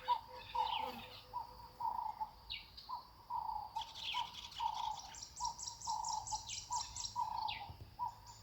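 Several wild birds calling. One repeats a low note about twice a second, while others give quick runs of high chirps and short falling whistles.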